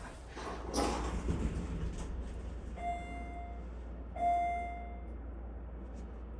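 Two short electronic chime tones at the same pitch, about a second and a half apart, the second louder, over the steady low rumble of a bus in motion. A brief rustling noise comes about a second in.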